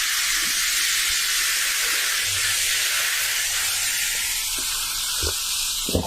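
A steady, loud hiss with a few faint soft taps near the end.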